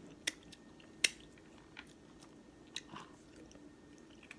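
Someone eating crab: chewing, with a few sharp clicks and cracks, the two loudest about a third of a second and a second in.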